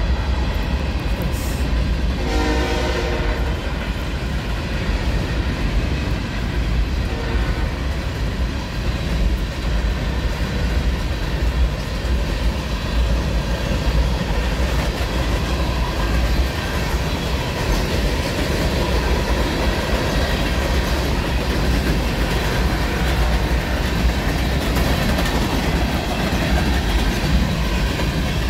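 Freight train's hopper cars rolling past over a grade crossing, a steady rumble with wheels clacking on the rail joints. About two seconds in, the locomotive horn sounds one short blast.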